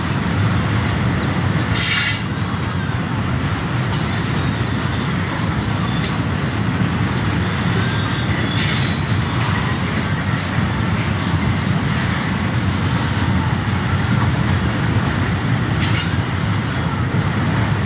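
A freight train of loaded oil tank wagons rolling past close by, its wheels running on the rails in a steady rumble. Short, sharp high-pitched sounds from the wheels and couplings come every couple of seconds.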